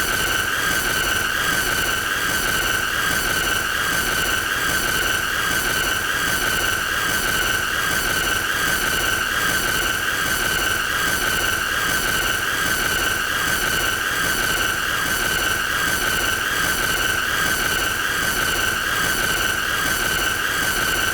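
A continuous, high-pitched, squealing tone held at one pitch, with a faint regular pulsing about twice a second: an annoying sound effect played on a loop.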